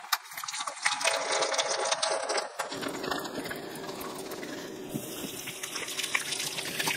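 Tap water running into a stainless steel kitchen sink while hands scrub and rinse under the stream, with small knocks and splashes in the first few seconds. The water sound fills out about three seconds in.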